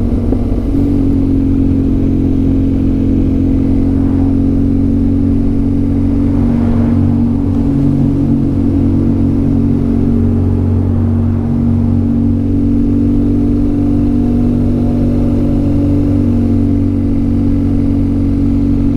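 Motorcycle engine running at a steady speed on the move, a constant drone that holds nearly the same pitch throughout.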